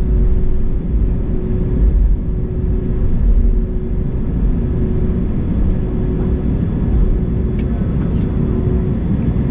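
Steady low rumble with a constant hum inside the cabin of an Airbus A321neo on the ground after landing, as the airliner moves toward its parking position. A few faint clicks sound near the end.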